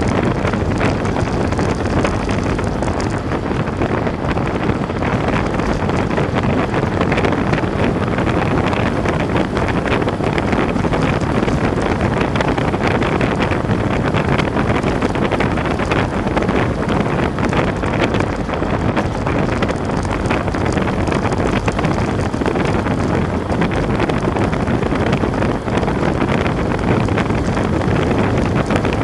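Heavy wind noise buffeting the microphone: a loud, steady rushing with no letup.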